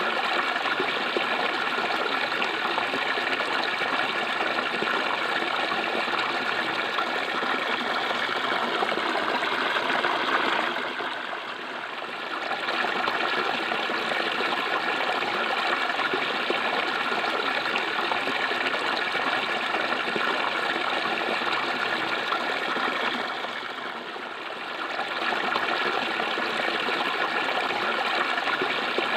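Clear water flowing and gurgling steadily, as in a small stream, easing briefly twice along the way.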